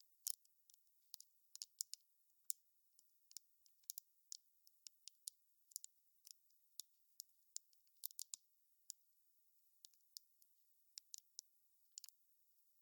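Wood fire crackling: irregular sharp pops and snaps, bunched at times, over an otherwise quiet background.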